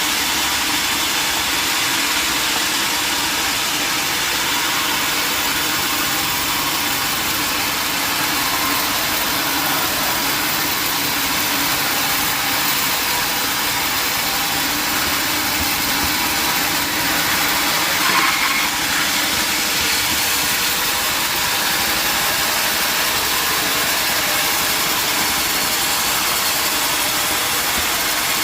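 Sawmill machinery running steadily: a constant, even machine noise with a low hum beneath, and one brief louder moment about eighteen seconds in.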